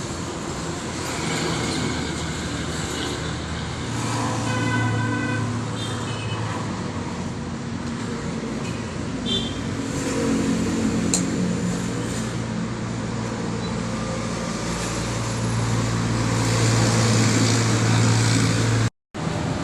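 Road traffic with vehicle engines running steadily, and a brief high pitched tone about four seconds in.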